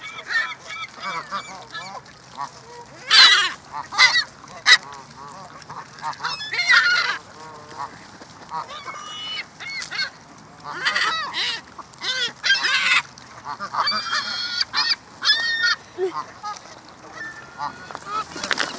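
A flock of gulls and ducks calling loudly over one another in repeated bursts, feeding on thrown crackers.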